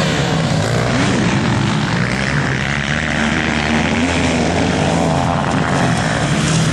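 Several motocross bikes racing at once, their engines revving up and down with overlapping, wandering pitches.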